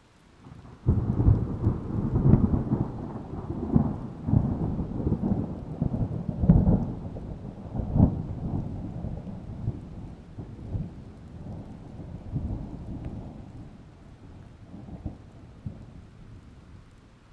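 A clap of thunder breaking about a second in, then rolling and rumbling with repeated sharp cracks that slowly die away.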